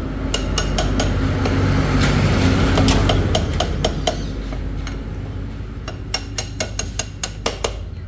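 Sharp metallic taps, like a hammer striking metal, over an engine running steadily. The engine swells louder for a second or two, as if revved, then settles. Near the end the taps come in a quick run of about eight.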